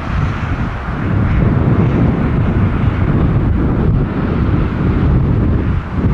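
Airbus A340-600 airliner's four Rolls-Royce Trent 500 jet engines coming in to land, a loud steady low rumble, with wind buffeting the microphone.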